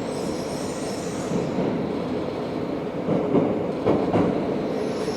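Running noise heard inside a Tobu 70000 series subway car as it travels through the tunnel: a steady rumble of wheels on rail. A thin high-pitched wheel squeal comes over it at the start and again near the end, and a few knocks from the track come through in the middle.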